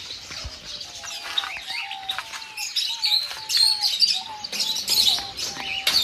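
Caged aviary birds chirping and twittering, with many short high calls overlapping. Underneath runs a thin whistle-like tone that shifts in pitch in small steps.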